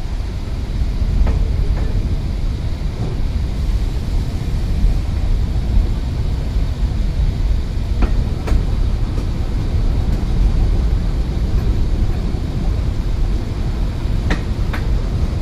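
Passenger train running along the track, a steady low rumble with a few sharp clicks in pairs, about eight seconds in and again near the end.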